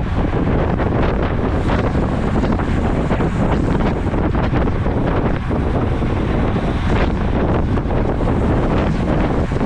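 Steady, loud wind rushing and buffeting across the microphone of a camera carried on a moving road bike.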